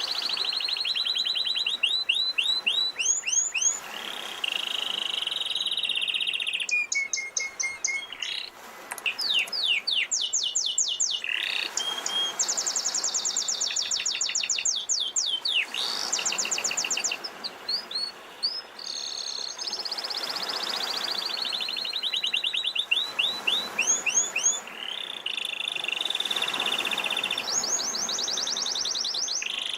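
Domestic canary singing a long, continuous song of rapid rolling trills and repeated chirps, over the swelling wash of sea waves.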